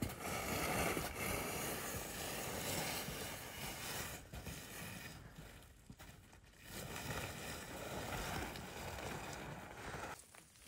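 Wind rushing in gusts, with a deep rumble of wind buffeting the microphone, easing briefly twice and dropping away near the end.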